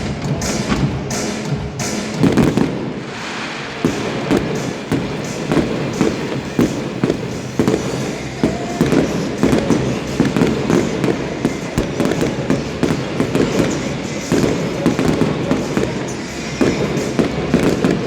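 Fireworks going off in a rapid, continuous string of bangs and crackles, several a second.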